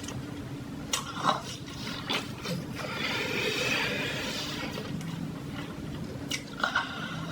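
Close-miked eating of crispy fried chicken: crunchy bites and wet chewing, with a few sharp crunches and a longer crackling stretch in the middle.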